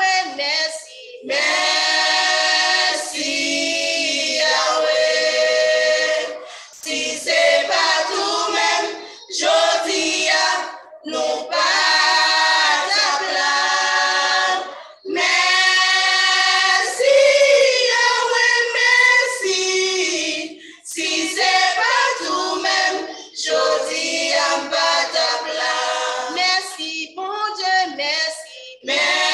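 Gospel choir singing a Haitian Creole hymn, women's voices prominent, in phrases broken by short pauses where the sound drops out, with no instruments heard underneath.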